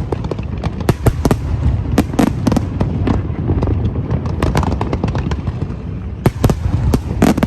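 Fireworks display: a rapid, irregular string of sharp bangs and crackles over a continuous low rumble of explosions, with a cluster of louder bursts near the end.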